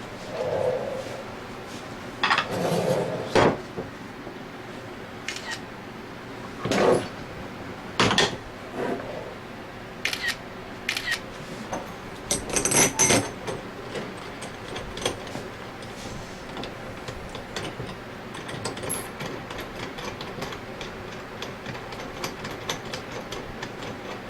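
Hand tools and the metal parts of a bearing-puller fixture clinking and knocking against each other while it is set up on a scroll compressor's scroll, with a bright metallic ring about 13 seconds in, followed by a long run of light, quick ticks.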